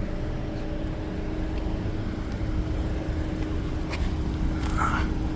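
A car's engine idling, heard from inside the cabin as a steady low rumble with a faint steady hum over it. There is a faint click about four seconds in.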